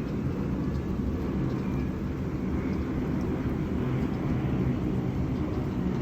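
Steady rain ambience: an even, deep rumbling noise with no single drops or other events standing out.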